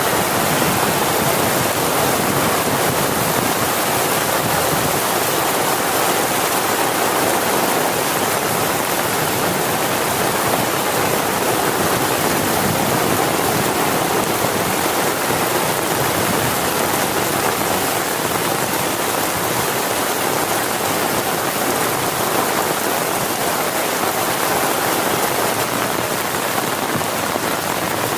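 Heavy rain falling steadily, an even hiss of water with no thunder or single drops standing out.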